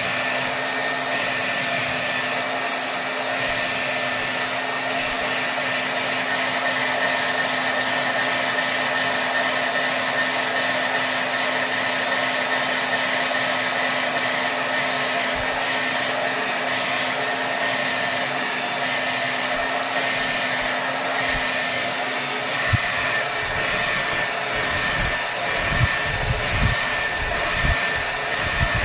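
Hair dryer running steadily on full power: a dense, even rush of air with a faint whine in it. In the last several seconds a few irregular low bumps come through.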